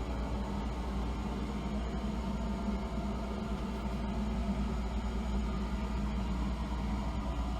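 Steady low hum and rumble of a sleeper train standing at the platform, its machinery running.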